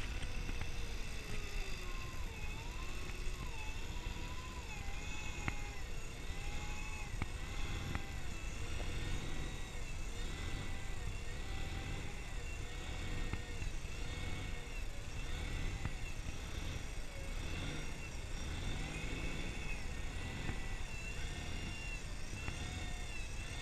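A motor running with its pitch rising and falling over and over, about once a second, over a steady low rumble.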